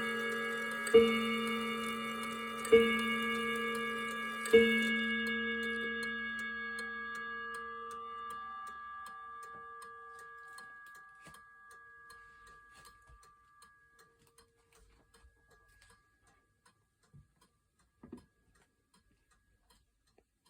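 Antique Kienzle bracket clock striking on its gong rod: three deep, ringing strokes about two seconds apart, the last left to die away slowly until only the movement's faint ticking remains. The hammer felts are worn, giving the strokes a harsher, more metallic sound. A small knock comes near the end.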